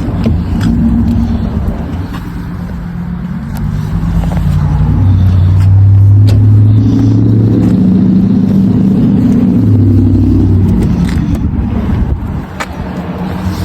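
A motor vehicle engine running close by with a low, steady hum that grows louder about four seconds in and eases off near the end, with a few light clicks.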